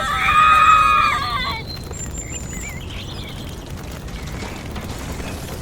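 A held, high vocal cry lasting about a second and a half, then only faint steady background noise.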